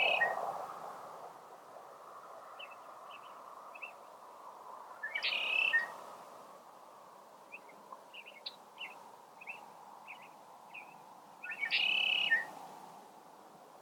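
Small birds singing: three longer warbled phrases about five seconds apart, with scattered short chirps between, over a faint steady background hiss.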